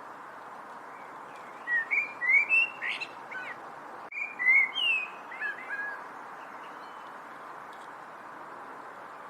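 A bird singing two short bursts of quick chirps and gliding whistles, a moment apart, over a steady background hiss.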